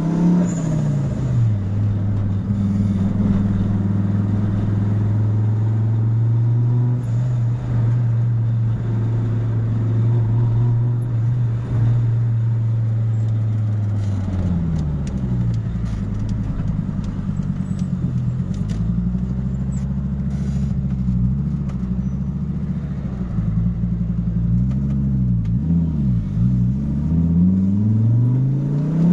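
Fiat Marea 2.0 20V turbo five-cylinder engine, tuned to run on ethanol. Its revs drop right at the start and hold steady for about ten seconds, then rise and fall repeatedly, climbing sharply at the end.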